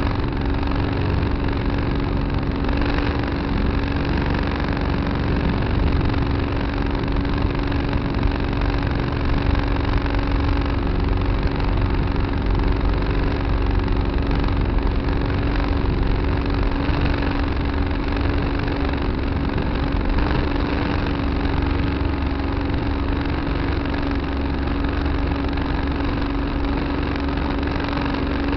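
Tractor engine running steadily under a constant throttle, with a steady hum at one pitch, heard from a dash camera mounted on the tractor.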